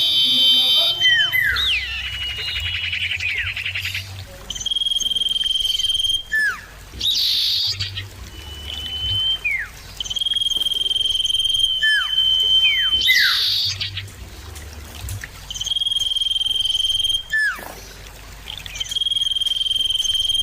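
Common iora calling over and over: a long, steady high whistle held for a second or two, followed by quick notes sliding downward. The phrase repeats several times over a faint low hum.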